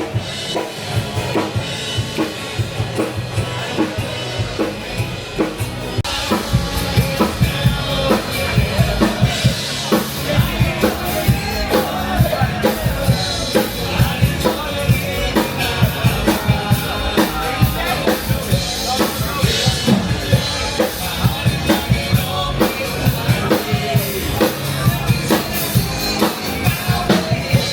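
Live band playing with a drum kit keeping a steady beat, bass drum and rimshots, and some singing. It gets fuller and louder about six seconds in.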